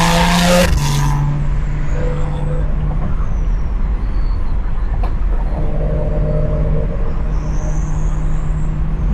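BMW N55 turbocharged straight-six exhaust heard through an exhaust-mounted microphone: a short pull with rising pitch that cuts off under a second in, then a steady low drone while cruising.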